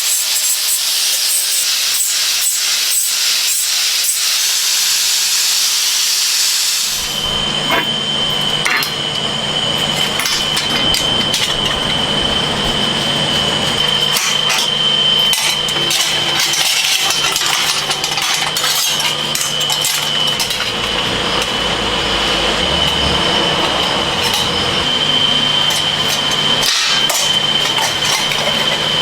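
Workshop tool noise: a rasping, sawing-like sound for about seven seconds, then abruptly a machine running with a steady high whine and a low hum, with scattered clicks and knocks.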